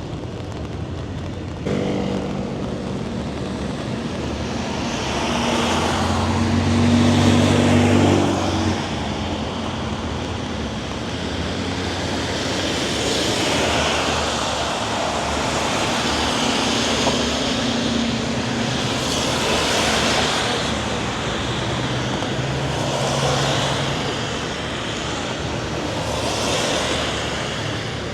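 Road traffic passing, vehicle after vehicle swelling and fading every few seconds. A heavy engine is loudest about seven seconds in.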